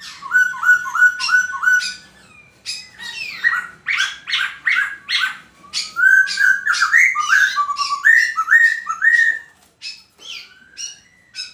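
A songbird singing a loud, varied song: a fast run of repeated dipping notes, then a string of rising whistled phrases, quieter toward the end.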